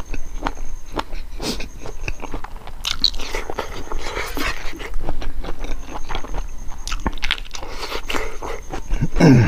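Close-miked chewing and crunching of chicken gizzards and rice, with wet squelching and clicks of fingers mixing rice into curry on the plate. Near the end a short hum slides down in pitch, the loudest moment.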